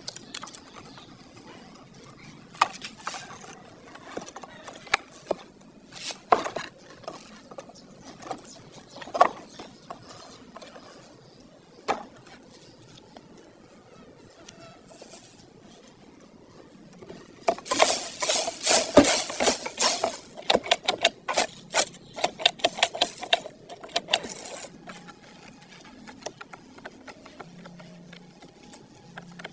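Hands working on small parts, making scattered sharp clicks and knocks. A dense run of rapid clicking and rattling starts a little past the middle and lasts about seven seconds; it is the loudest part.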